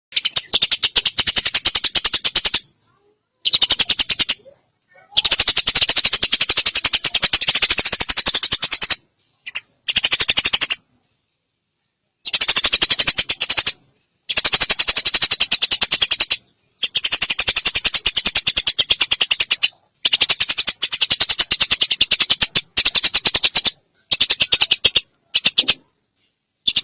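Sparrows giving loud, rapid-fire chattering calls, the harsh chatter of birds fighting, in bursts of one to four seconds that stop abruptly between.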